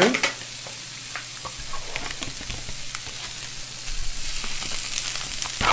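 Thin-sliced beef brisket and kimchi sizzling on a hot electric griddle, a steady hiss with scattered crackles and pops. It grows louder about four seconds in as cooked rice is tipped onto the hot plate.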